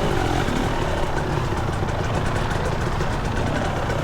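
Two-stroke dirt bike engine idling steadily at low revs.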